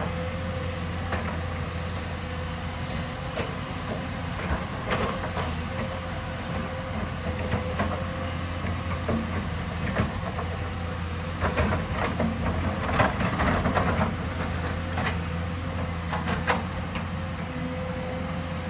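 Hyundai hydraulic excavator's diesel engine running steadily under a constant hydraulic whine, with scattered clanks and scrapes of the bucket working rock and soil, busiest a little past the middle.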